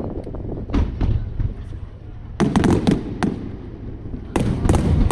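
Star mine fireworks barrage: shells bursting in quick clusters of sharp cracks and booms, one burst about a second in, then dense runs in the middle and near the end.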